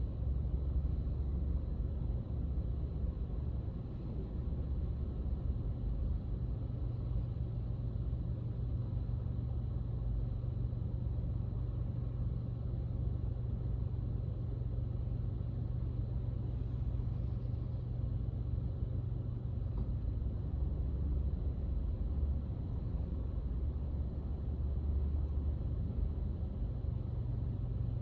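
Steady low rumble of a car driving: engine and road noise with no sharp events.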